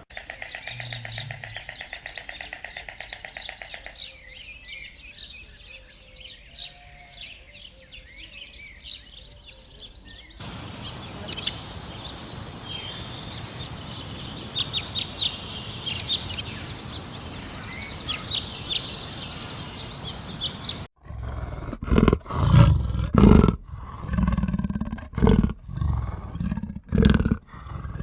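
A run of animal sounds. First, short high bird chirps over a steady hiss. Then, from about three-quarters of the way in, a large animal's loud, repeated short low calls.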